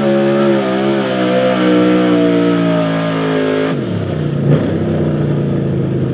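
Small-block V8 pulling truck's engine running hard at high revs under load, the pitch wavering and sagging slightly. About three and a half seconds in, the revs drop sharply as the driver lets off, and the engine settles at a lower, steady speed.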